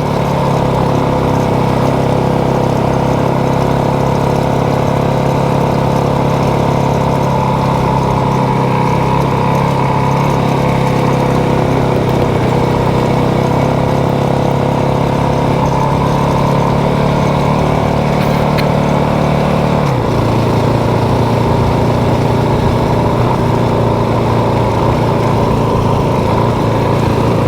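Motorcycle engine running steadily while riding, heard from the rider's own recording. About two-thirds of the way through its pitch drops suddenly and then holds steady again, as at an upshift or easing off the throttle.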